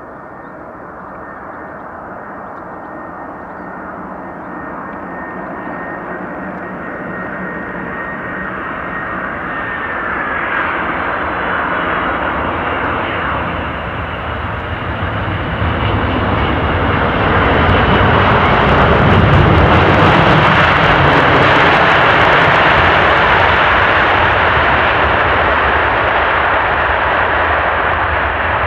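Jet airliner engines on a landing approach, growing steadily louder to a peak about two-thirds of the way through, then easing off a little. A high engine whine drops in pitch about ten seconds in as the aircraft passes.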